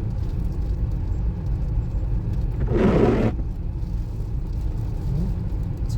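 Steady low rumble of a car driving. About halfway through there is one short, louder rushing noise.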